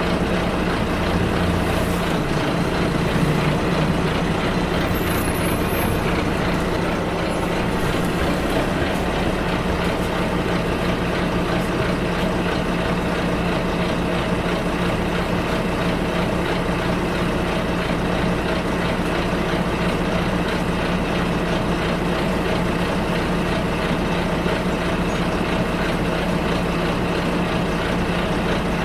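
Steady drone of a bus's engine and road noise, heard from inside the passenger cabin. The low engine note shifts briefly in the first few seconds, then holds even.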